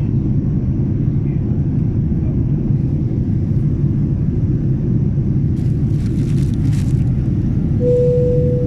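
Steady low rumble of an airliner's engines and airflow heard inside the passenger cabin. A short steady tone sounds near the end.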